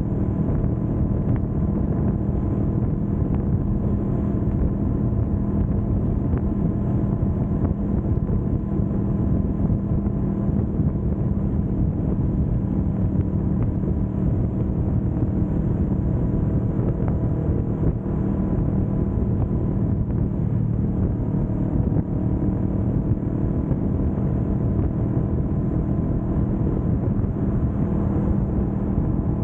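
Kawasaki Vulcan S 650's parallel-twin engine running at a steady engine speed while cruising, with road and wind noise underneath.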